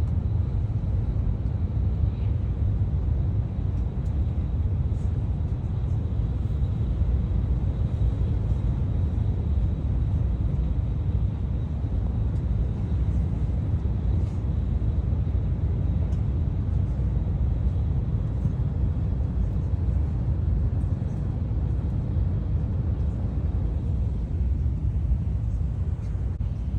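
Steady low rumble of a Tokaido Shinkansen train running at speed, heard from inside the carriage, with a faint steady high whine above it.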